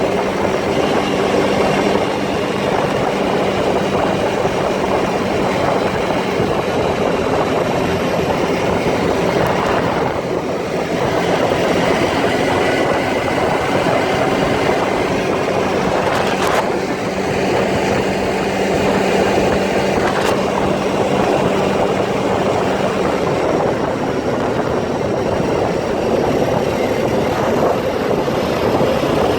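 All-terrain vehicle (four-wheeler) engine running steadily during a trail ride, with rough, noisy road and wind rumble over a steady engine drone. A couple of brief knocks come around the middle.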